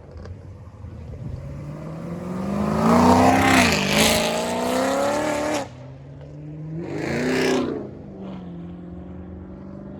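Car engine revving hard: its pitch climbs and holds loud for a few seconds, then cuts off suddenly about five and a half seconds in. A second, shorter rev rises and falls about seven seconds in.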